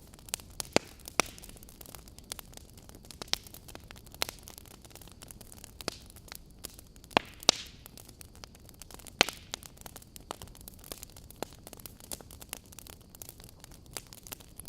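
Wood fire burning in a fireplace: a steady low hiss with irregular sharp crackles and pops, the loudest snaps coming about a second in, twice around seven seconds in, and once near nine seconds.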